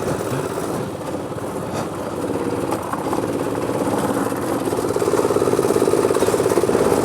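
Small go-kart engine running under load, its pitch and loudness rising gradually over the second half.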